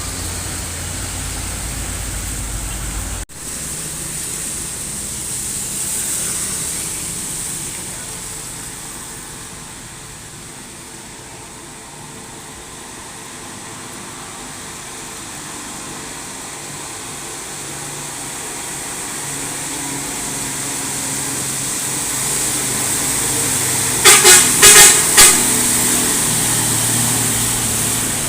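Truck engines running on the road, the noise easing off and then building again as traffic passes. Near the end, a vehicle horn gives four short, loud toots.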